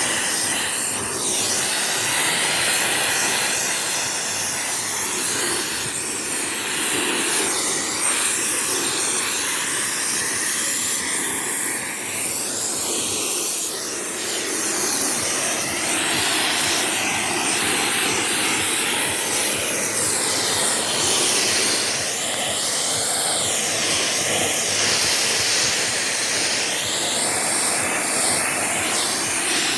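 Vacuum cleaner running steadily as it cleans sofa upholstery, a loud motor whine and suction hiss whose pitch keeps shifting up and down as the nozzle moves and its airflow changes.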